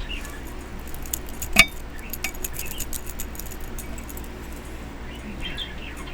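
Light clicks and clinks of small hard craft items being handled, with one louder, briefly ringing clink about a second and a half in.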